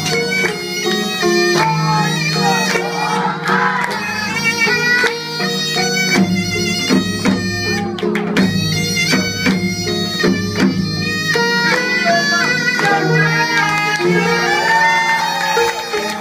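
Live Korean traditional ensemble music: a loud reed-like wind instrument plays a lively melody over steady low held notes, with regular percussion strokes.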